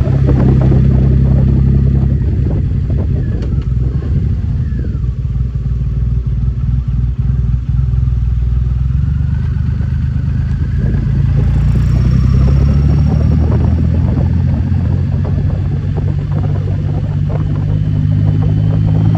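Motorcycle engine running while riding downhill. Its note eases off about a third of the way in and builds again past the middle.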